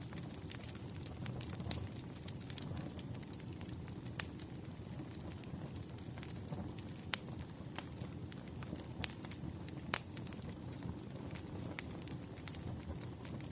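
Wood fire burning with a steady low rumble and scattered sharp crackles and pops, a few louder snaps standing out.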